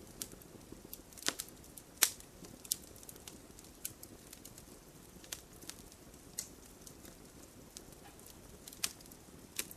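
Campfire crackling: irregular sharp pops and snaps over a soft, steady hiss of burning, the loudest pop about two seconds in.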